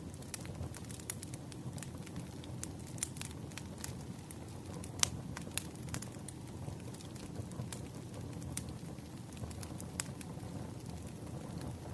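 Wood fire crackling: irregular sharp pops and snaps over a low steady rush of the burning logs, with one louder pop about five seconds in.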